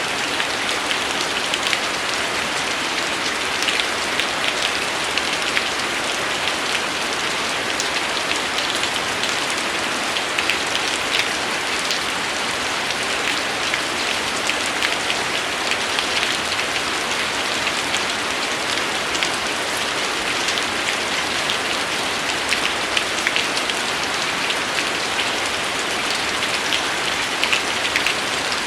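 Steady rain falling, an even hiss with many individual drops ticking against a surface throughout.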